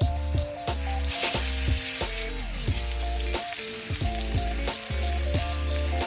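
Food frying in a pan over a campfire, with a steady sizzle, under background music with a melody and bass line.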